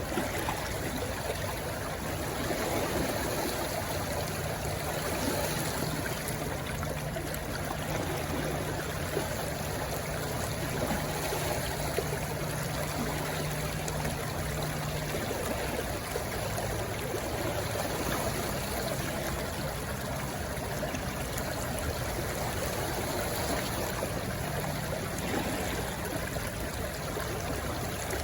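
A rushing stream flowing steadily over rocks, an even wash of water sound.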